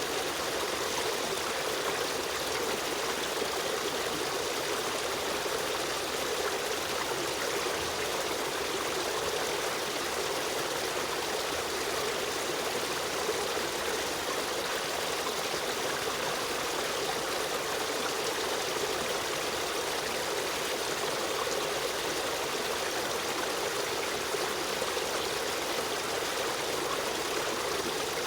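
Stream of running water flowing steadily, a continuous even rush with no breaks.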